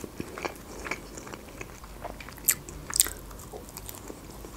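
A person chewing a bite of breaded chicken nugget, giving soft, wet mouth clicks throughout. Two sharper, louder clicks come about two and a half and three seconds in.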